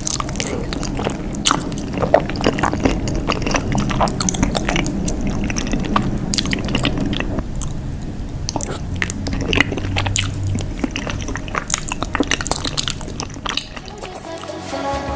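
Close-miked chewing and biting of cheese, with irregular wet smacks and clicks of the mouth. Music begins just before the end.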